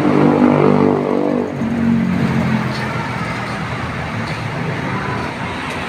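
A motor vehicle's engine note falling in pitch over the first two seconds or so, then steady traffic and road noise.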